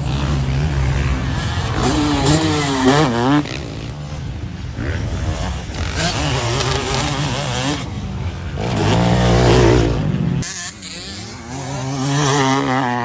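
Two-stroke motocross bike engines revving hard, the pitch climbing and dropping again and again as the throttle is worked. The sound changes abruptly a few times, about three and a half seconds in and near ten and a half seconds, as one riding clip cuts to the next.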